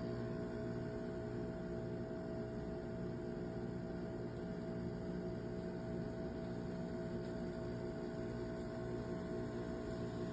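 Espresso machine's vibratory pump running with a steady low buzzing hum.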